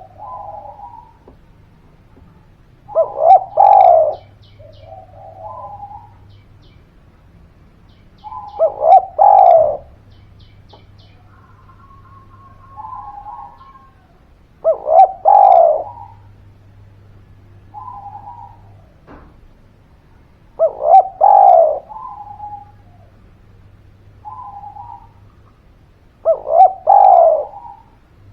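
Spotted dove (derkuku) cooing: a loud phrase of two or three coos about every six seconds, five in all, with softer single coos between them.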